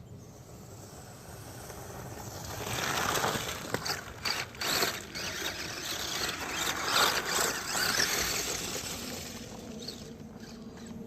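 WLtoys 10428-A RC crawler truck's electric motor and geared drivetrain whirring as it crawls, with clicks and scraping. It builds up about two seconds in, is loudest through the middle, and eases off near the end.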